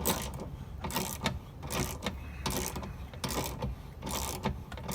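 Socket ratchet clicking in a series of strokes, about one a second, as a bolt is loosened.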